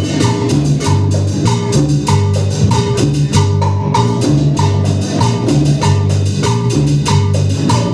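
Live band playing an instrumental cumbia passage: a repeating bass line under a steady percussion beat with evenly spaced sharp hits.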